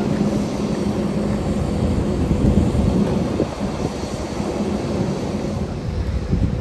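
Aircraft engine rumble with a steady low hum, with wind buffeting the microphone.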